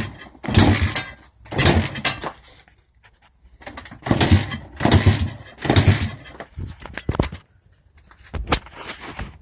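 Honda XR100's single-cylinder engine being kick-started again and again, each kick a short clattering burst with a low thump, turning the engine over without it catching: it will not start.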